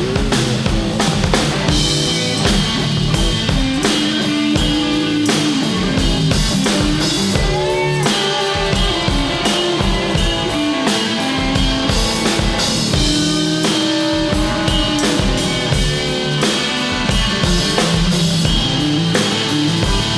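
A live blues-rock band playing: a drum kit keeping a steady beat with kick and snare under electric guitar and bass, with bending, sliding melodic lines over the top.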